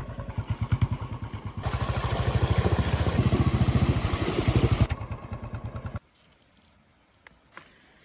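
An engine running with a rapid, even pulse, louder in the middle, then cutting off abruptly about six seconds in; a few faint clicks follow.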